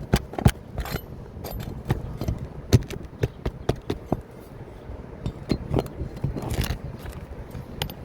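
A metal roofing tool clinking, tapping and scraping against an asphalt shingle and its nail while a remaining fastener is worked loose. The sharp, irregular clicks come with a few louder knocks.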